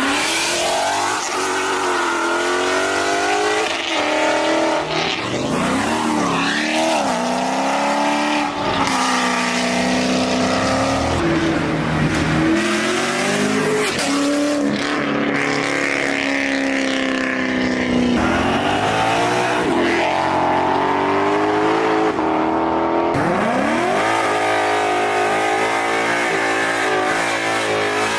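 Performance car engines revved hard and accelerating, the pitch climbing and dropping again and again as the driver works the throttle. About 23 seconds in, a fast rev climb settles into a steadier engine note.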